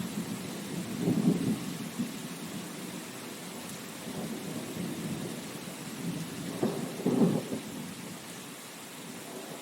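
Steady rain with low rumbles of thunder swelling and fading, the loudest rolls about a second in and again about seven seconds in.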